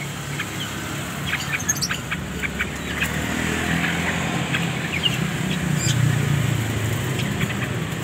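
Small caged birds giving short, scattered high chirps, over the low rumble of a passing motor vehicle's engine that swells in the second half and is the loudest sound.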